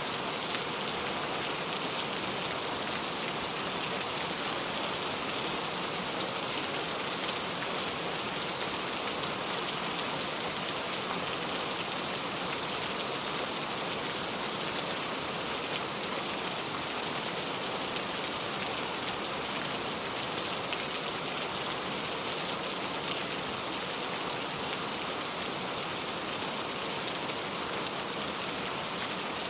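Heavy rain pouring steadily, a dense even hiss of drops with fine pattering.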